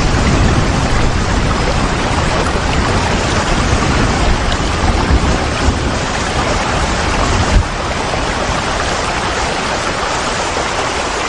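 Steady rain, a dense even hiss across the whole range with a deep low rumble underneath; the rumble eases a little about two-thirds of the way through.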